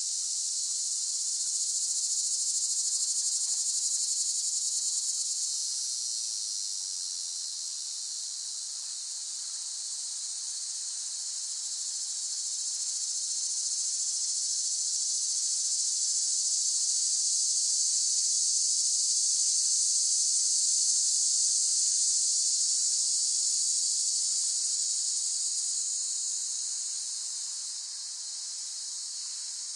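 A chorus of cicadas in a continuous high-pitched shrill drone that slowly swells and fades in loudness.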